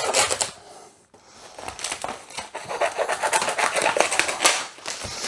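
Washing machine packaging being cut open: rapid scratchy cutting and crinkling, a short pause about a second in, then steady cutting.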